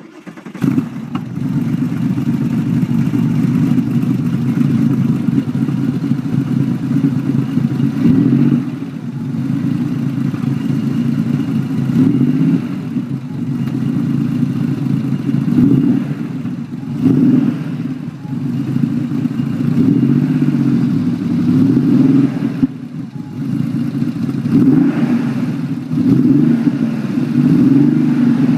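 Porsche 964's air-cooled flat-six running through an aftermarket dual-outlet exhaust, idling with repeated throttle blips that swell and drop back every few seconds.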